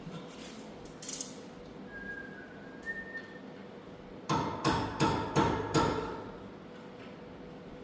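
Metal being struck with a hammer: about five quick ringing blows in a second and a half, a little past the middle, after a couple of lighter knocks earlier.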